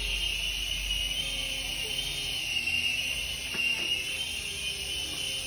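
Sky-rover Knight-vision toy RC helicopter's small electric motors and rotors running with a steady high whine.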